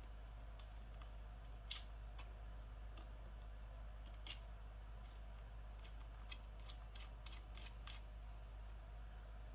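Faint, irregular small clicks and ticks of a hand tool driving in a screw, over a steady low hum.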